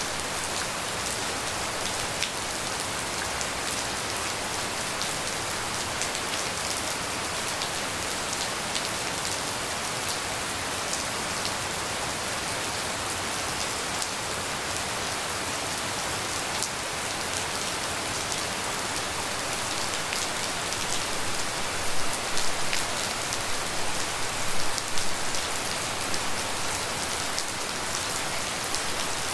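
Steady rain falling, a dense hiss with many separate drops ticking, with a few louder spells of heavier drops about three quarters of the way through.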